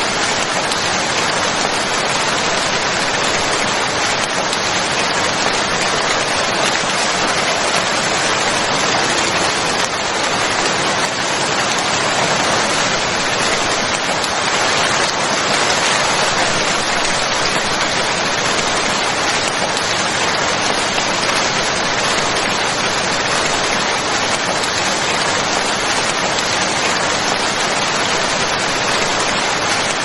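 Steady, even rain falling, with no distinct drops, thunder or other sounds standing out.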